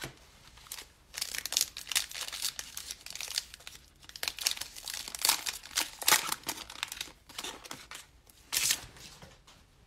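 Wrapper of a trading card pack crinkling and tearing as it is opened by hand, in clusters of crackling that start about a second in and die out near the end.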